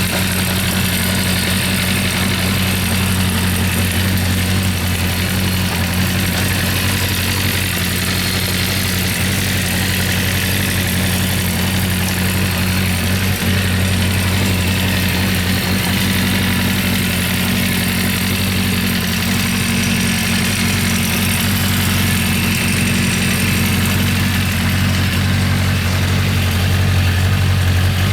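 Honda CB400 Four's 408 cc air-cooled inline-four engine idling steadily.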